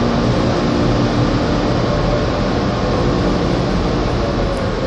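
Steady, loud rushing noise heard from inside a car, with a low engine hum underneath.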